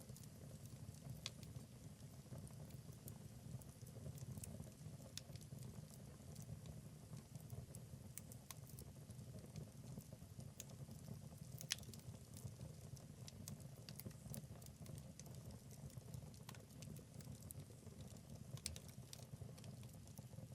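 Wood fire burning in a fireplace: a soft steady rumble of the flames with scattered sharp crackles and pops from the logs, one louder pop about midway.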